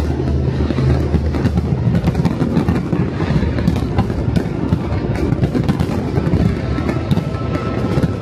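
Fireworks display: dense, rapid crackling and popping of aerial shells over a heavy low rumble, mixed with music from the show's soundtrack whose held low notes fade out about two seconds in.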